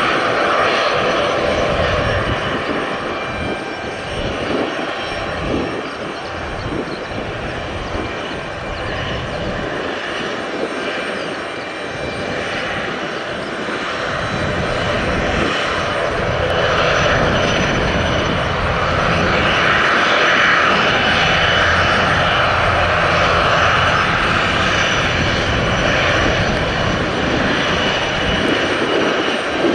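Airliner turbine engines running with a steady whine, growing louder about halfway through, while gusty wind buffets the microphone.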